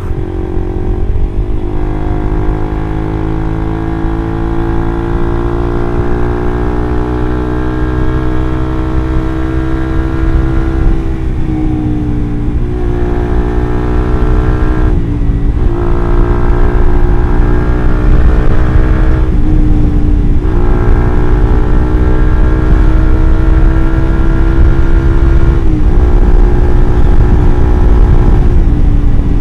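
Suzuki GSX-R150's single-cylinder engine running through an R9 Mugello aftermarket exhaust while the bike is ridden. The engine note climbs slowly and breaks off briefly about four times before picking up again.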